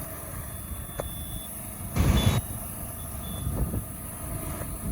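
Low rumble of road traffic, with a few short high-pitched beeps and a brief whoosh about two seconds in.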